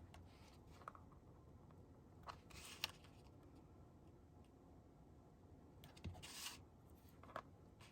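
Near silence with a few faint, brief rustles and light taps of paper being handled on a craft table.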